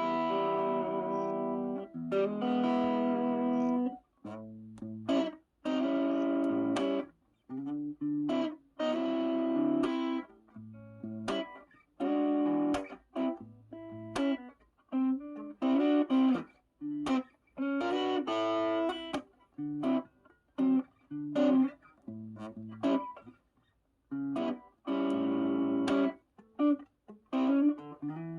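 Electric guitar played through an overdrive pedal: strummed chords and short phrases, each one stopped sharply into silence before the next.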